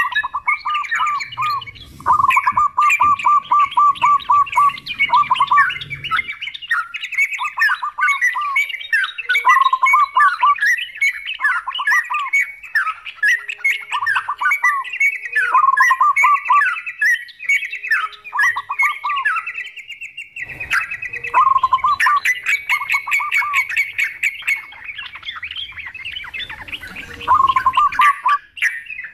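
Yellow-vented bulbuls and a zebra dove calling together: dense, overlapping bubbly chatter with runs of quick, evenly repeated notes. The calls break off briefly about two-thirds of the way through.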